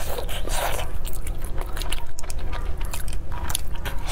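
Close-miked eating sounds of a person biting and chewing a soft, sticky glutinous-rice pearl meatball, with many small mouth clicks throughout.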